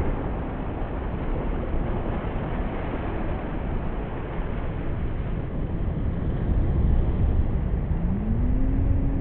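Class-5 whitewater rushing and churning around a raft, a steady loud roar that grows louder near the end. Near the end a person lets out one drawn-out call that rises and falls in pitch.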